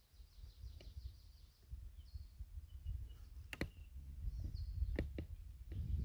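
Birds calling in short trilled phrases over a low rumble of wind buffeting the microphone. A few sharp clicks cut through, the strongest about three and a half seconds in and at five seconds.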